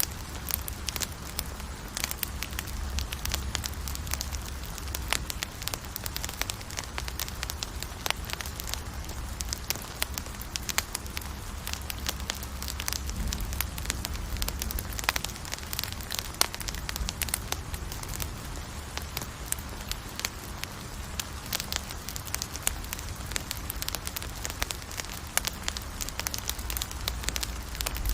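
Campfire burning, with dense, irregular crackles and pops from the wood and a low rumble beneath.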